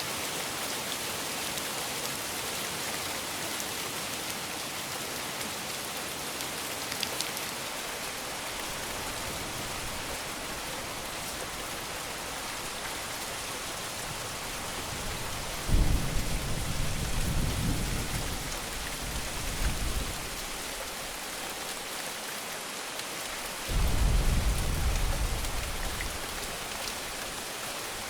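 Steady rain hissing during a thunderstorm, with two rolls of thunder: one breaking suddenly a little past the middle and rumbling on for about four seconds, and a second near the end that fades over a couple of seconds.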